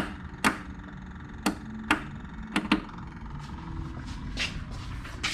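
A series of sharp clicks and knocks, about six in the first three seconds, two of them in quick succession, from hands working parts of the tractor's lighting wiring, followed by softer rustling.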